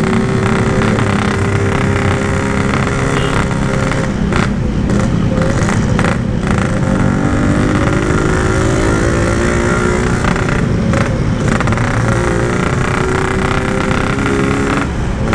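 Yamaha RX-King's single-cylinder two-stroke engine running under way, its pitch drifting slowly down and up, with heavy wind rumble on the microphone. The bike is barely pulling, which the rider puts down to an over-rich, too-wet carburettor that needs setting.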